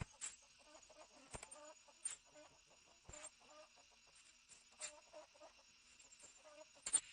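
Chickens clucking softly and repeatedly, with a few sharp clicks in between.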